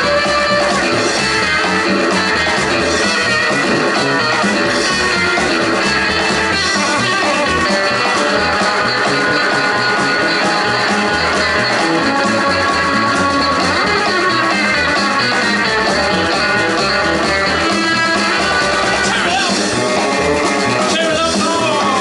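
Rockabilly band playing live and loud, with electric guitar to the fore over bass and drums in a long instrumental passage.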